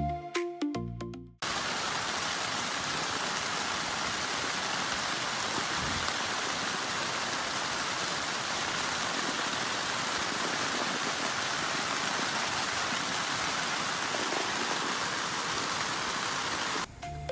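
Background music fades out about a second in, then steady rushing water, an even unchanging hiss that cuts off abruptly just before the end.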